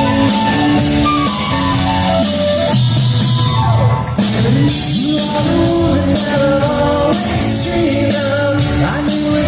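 Live soft-rock band playing an instrumental passage: guitars, bass and drums with a melody line over them.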